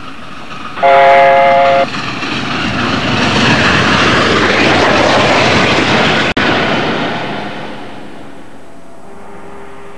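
A diesel train sounds one short horn blast, then rushes past at speed, its noise swelling to a peak and fading away.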